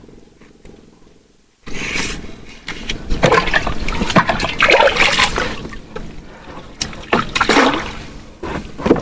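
Water splashing and sloshing in irregular surges, starting suddenly about a second and a half in.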